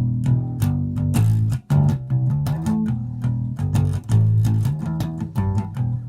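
Epiphone EB-3 electric bass played as a plucked bass line of quick, sharply attacked notes, starting abruptly.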